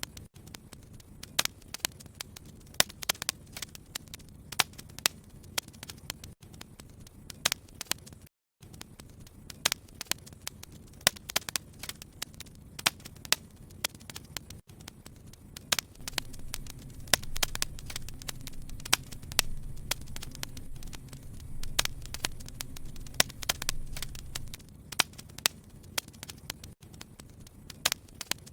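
Wood fire in a fireplace crackling, with irregular sharp pops over a low steady rumble of flame. The rumble swells louder for several seconds in the middle.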